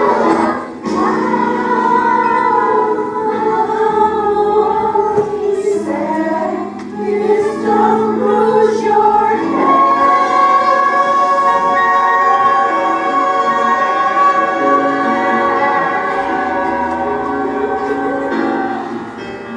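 Choir singing a song with accompaniment, moving through short phrases and then holding long notes from about halfway through.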